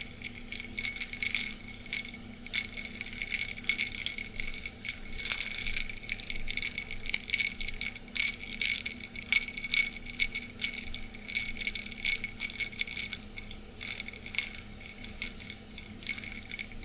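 Ice cubes clinking and rattling in a glass, shaken continuously. Rapid, irregular clinks with a bright glassy ring.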